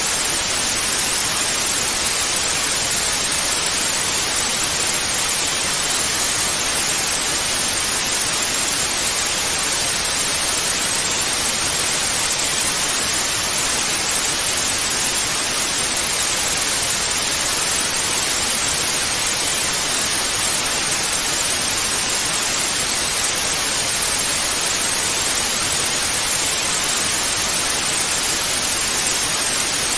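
Television static: a steady, even hiss of white noise, strongest in the upper range.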